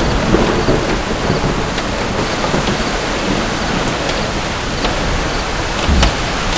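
Heavy rain and hail striking a car: a dense steady hiss of rain with scattered sharp ticks of hailstones hitting the body and glass.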